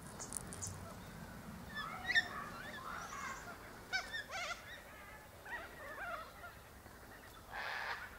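Wild birds calling outdoors: scattered short calls and chirps, several sliding in pitch, the sharpest about two seconds in. A brief rush of noise comes near the end.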